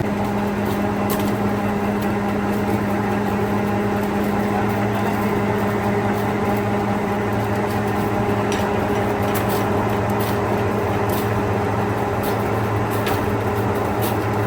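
Factory machinery running with a steady electric hum and a few faint clicks.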